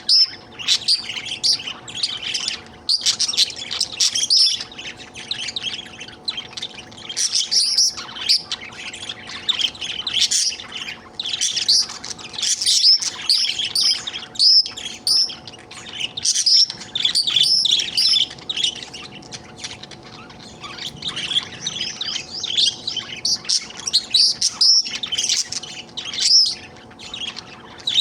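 Budgerigar chattering and warbling without a break: rapid, varied chirps and twitters, the contented chatter of a happy budgie.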